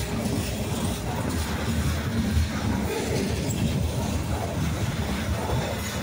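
Freight train of covered hopper cars rolling past close by: a steady rumble of steel wheels on the rails.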